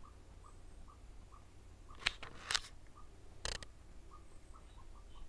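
A bird repeating a short 'book' note about twice a second, steady and even. Two brief noisy rustles stand out about two and three and a half seconds in.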